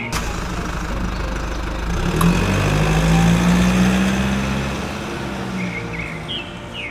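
A motor running with a steady hum that swells louder and a little higher in pitch between about two and four seconds in, then eases back. A sharp click comes just after the start, and short high chirps come near the start and the end.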